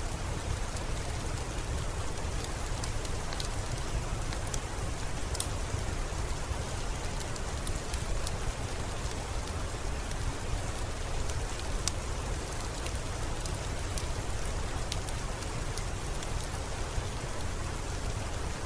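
Steady rainfall ambience: an even hiss over a low rumble, with scattered sharp ticks.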